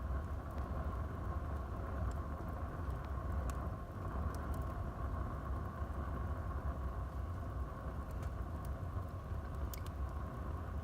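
Wood fire burning in a fireplace: a steady low rumble of the flames with a few sharp crackles and pops from the burning wood, a couple of them close together just before the end.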